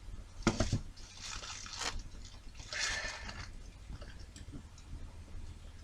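Small model-kit parts being handled and shifted on the bench: a sharp click about half a second in, then two spells of scraping and rustling as the pieces are moved, with a few light ticks after.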